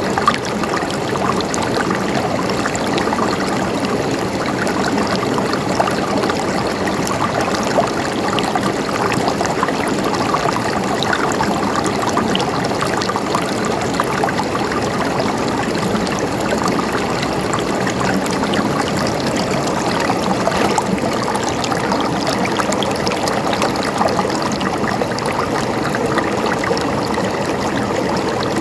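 A stream of water flowing and gurgling steadily, with a dense even rush and small splashing ticks throughout.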